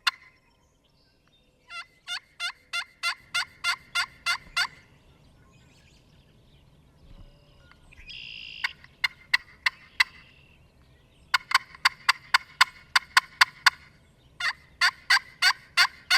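A bird calling in several runs of sharp, evenly repeated notes, about four or five a second, each run lasting a few seconds.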